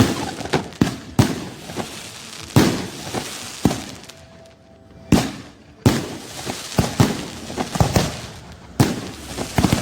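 An irregular series of sharp bangs and cracks, several a second at times, with a lull about four to five seconds in.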